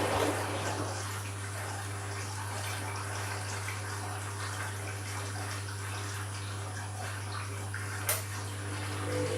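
Water swishing and trickling inside a Candy washing machine's drum during an empty bleaching cycle, over a steady low hum, with a single click about eight seconds in.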